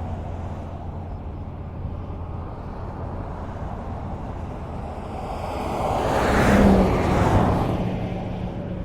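Highway traffic: a steady low rumble of distant vehicles, with one car passing close by a little past the middle, its tyre and engine noise swelling and then fading.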